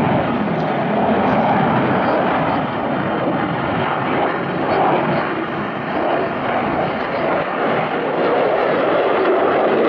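Eurofighter Typhoon FGR4 fighter jet's twin EJ200 turbofan engines heard loud during a display flypast: a dense, rushing jet noise that swells and eases a little but never drops away.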